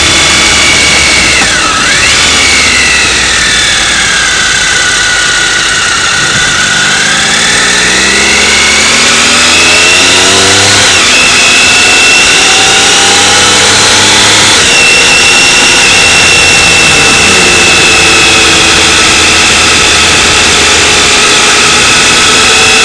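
Motorcycle engine running under way, its pitch sinking and climbing with the throttle, with quick dips in pitch at a couple of points as gears change, over steady rushing noise.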